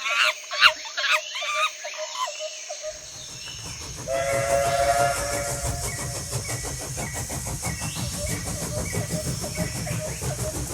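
Battery-powered TrackMaster toy train running on plastic track: a steady motor buzz with fast, even clicking. About four seconds in comes a recorded steam-whistle sound, then short repeated tones. High, wavering calls sound in the first two seconds.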